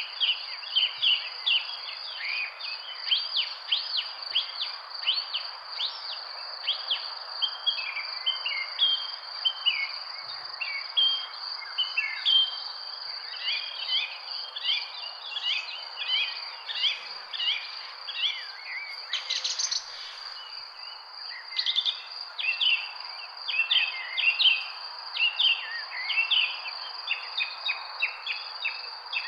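Many small birds chirping and singing in quick short notes, over a steady high-pitched trill of crickets and a soft background hiss.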